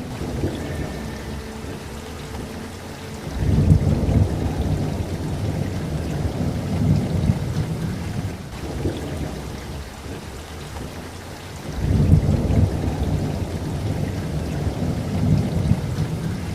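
Steady rainfall with rolling thunder: two deep rumbles swell up, one a few seconds in and another near the end.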